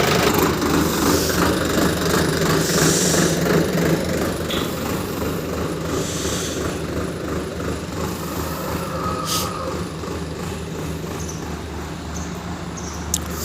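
ACE tractor's diesel engine running steadily, slowly getting a little quieter, with one short click near the end.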